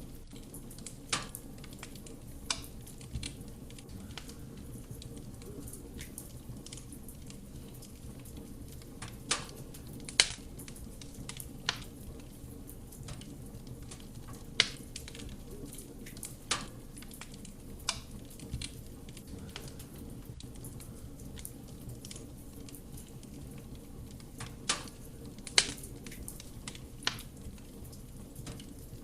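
Wood fire burning in a fireplace: a steady low rumble of flame with sharp, irregular crackles and pops from the burning logs.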